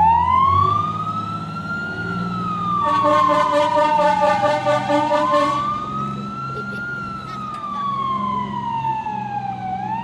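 Fire engine's siren wailing, rising and falling slowly about twice. A pulsing horn sounds over it from about three seconds in for a couple of seconds, above the truck's low engine rumble.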